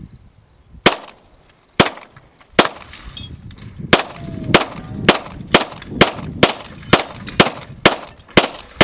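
AR-15 rifle firing a string of about thirteen single shots, each a sharp crack with a short echo. They come about a second apart at first, then speed up to about two a second.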